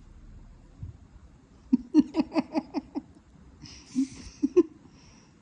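Laughter: a quick run of about seven short 'ha' sounds, then a brief breathy burst and two more 'ha's near the end.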